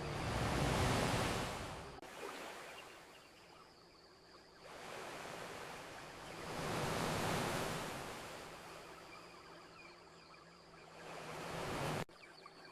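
Ocean waves washing onto a beach. Two large swells break about six seconds apart, and a third builds near the end and cuts off suddenly.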